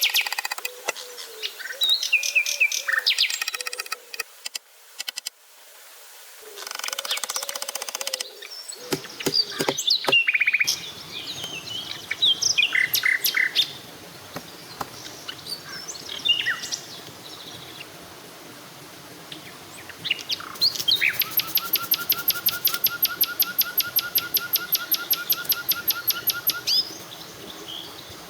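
Wild birds chirping and calling in forest, with a long rapid trill of evenly repeated notes for several seconds near the end, over a steady background hiss.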